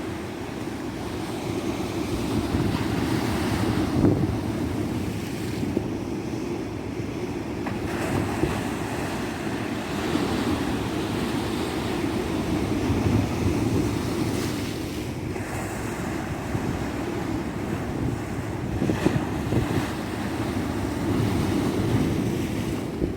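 Ocean surf breaking on a beach: a continuous wash of waves with a deep rumble, swelling and easing every few seconds, with wind blowing on the microphone.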